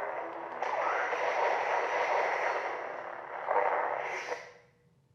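Xenopixel V3 lightsaber's sound board playing a sound font: the blade hums with swinging whooshes and a swell a little after three seconds, then the sound fades out near the end as the blade shuts off.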